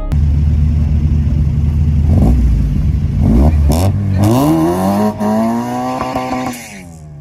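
A small hatchback's engine revving at the drag strip start line: a few uneven blips of the throttle, then the revs climb and are held high for about two seconds before dropping away near the end. Two sharp clicks come partway through.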